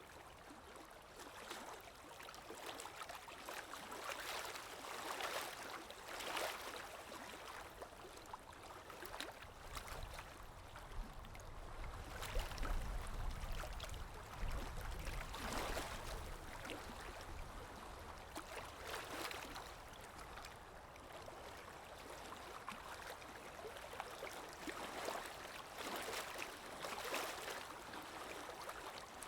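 Water lapping, with soft washes swelling every few seconds, over a steady wind. A low wind rumble rises in the middle.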